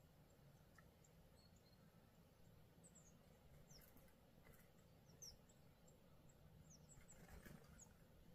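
Near silence with faint, short, high chirps of small birds scattered throughout, a few quick descending notes among them.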